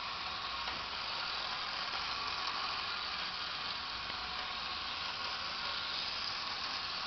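Tin toy car's mechanism running with a steady, even whir.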